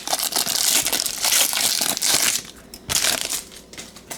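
Plastic trading card pack wrapper being crinkled and torn open by hand. The dense crackling runs for the first two seconds or so, with a shorter burst near three seconds in.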